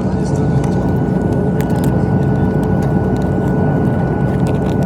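Steady drone of an airliner cabin in flight, engine and air noise, with a faint steady whine over it.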